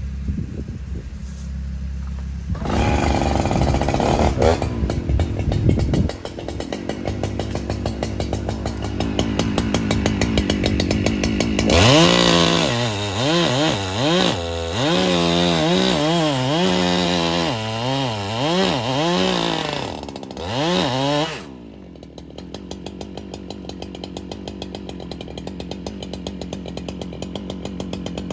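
Chainsaw running, its engine pitch rising and falling again and again in the middle as it revs, then settling to a lower, steady running speed near the end.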